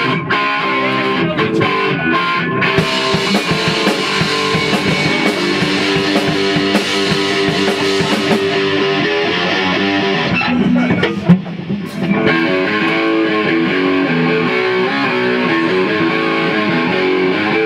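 Rock band playing live at rehearsal, with electric guitar and drum kit. The music thins briefly about two-thirds of the way through, with one sharp loud hit, then the full band comes back in.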